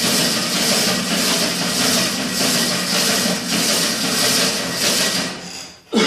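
A steady mechanical whooshing with a low hum, pulsing evenly about one and a half times a second, that dies away near the end and is followed by a sharp knock.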